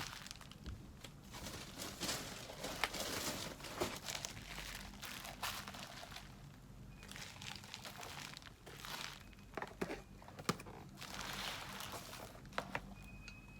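Crinkly packaging being handled and crumpled in repeated bursts, with a few sharp clicks a little after the middle.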